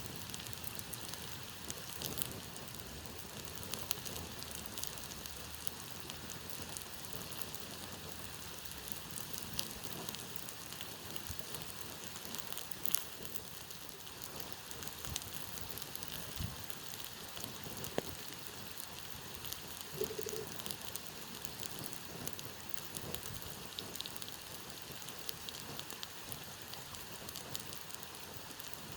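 Campfire burning: a steady hiss with scattered crackles and pops throughout, a few of them sharper snaps.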